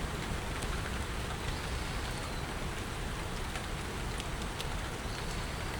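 Steady rainfall, an even hiss with scattered sharp ticks of drops striking close by.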